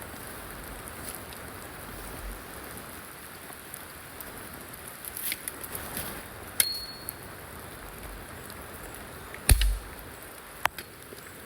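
Steady rain patter with a few knocks and clicks of handled gear: a short metallic ping about six and a half seconds in, and the loudest, a heavier thud about two seconds before the end.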